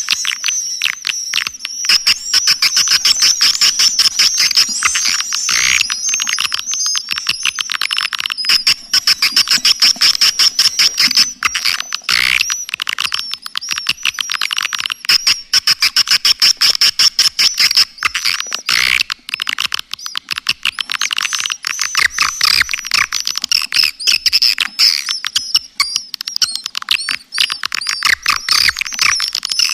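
Swiftlet lure call: a dense, continuous stream of rapid, high-pitched swiftlet chirps and twitters, played as a recording to attract swiftlets to a nesting house.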